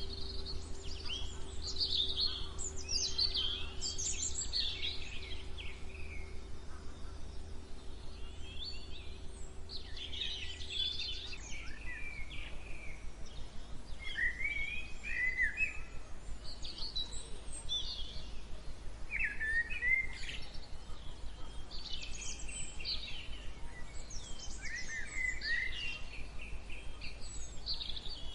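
Several songbirds singing and chirping in quick, varied phrases over a steady low background rumble. A faint steady hum underneath stops about a third of the way through.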